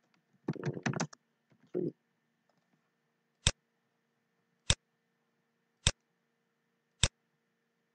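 Computer mouse clicking: four sharp single clicks about a second apart, after a brief clatter of desk handling near the start.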